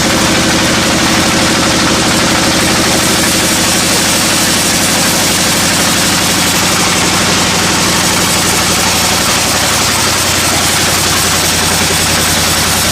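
Sawmill machinery running steadily, an engine drone over a dense mechanical noise; the drone's pitch shifts about nine seconds in.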